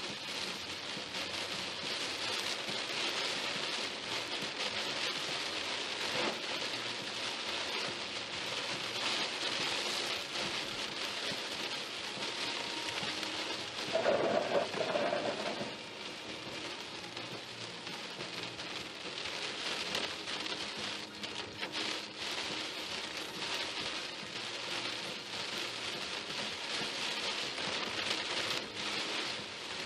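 Steady heavy rain falling on a moving car, an even hiss throughout. About halfway through a louder sound with a steady mid-pitched tone stands out for a second or two.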